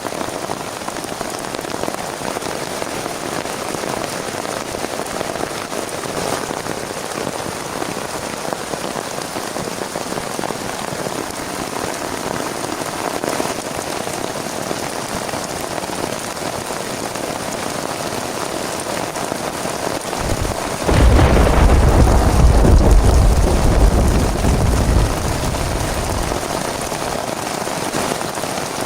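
Steady heavy rain falling, with a loud, deep roll of thunder about two-thirds of the way through that rumbles for several seconds and fades.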